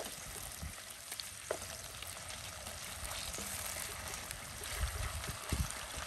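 Potato sticks sizzling steadily in hot oil in a pan, with a wooden spatula clicking against the pan a couple of times as they are stirred. A few dull low thumps come about five seconds in.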